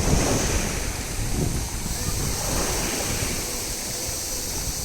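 Wind buffeting the microphone over choppy sea water, with waves splashing.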